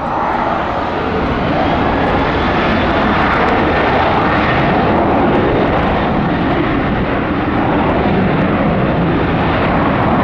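Boeing 737-800's CFM56-7B turbofans at takeoff power during departure: a loud, steady jet roar that builds over the first second or two.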